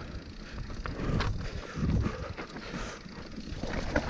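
Mountain bike rolling over a rough dirt trail: an uneven low rumble from the tyres and frame, with scattered sharp knocks and rattles from rocks and ruts.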